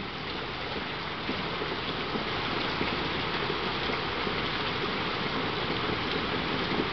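Heavy rain pouring down in a steady, dense hiss, with scattered drops splashing, growing slightly louder.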